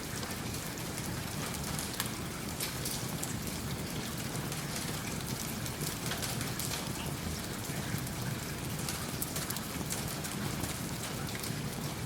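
Steady rain falling, with scattered sharp crackles from a wood fire burning in a fireplace.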